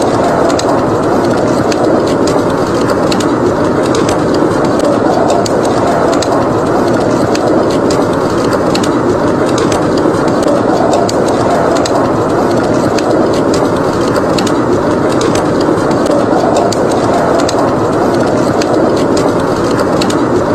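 Wood fire crackling in a fireplace, many small sharp pops scattered throughout, over a steady low rush of wind.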